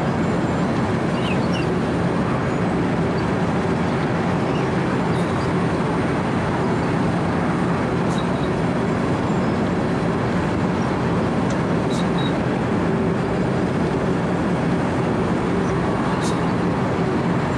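Wirtgen W 120 CFi cold milling machine running steadily under load: its diesel engine and cutting drum grind through freeway asphalt in a constant, even noise with a low engine hum.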